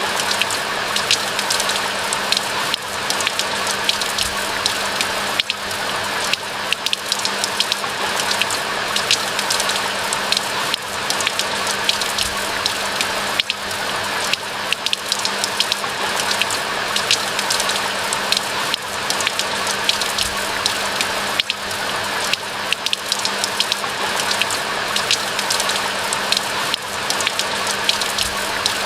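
Steady rain falling in a pine forest: a constant hiss dense with the sharp pattering of individual drops, with a steady low hum underneath.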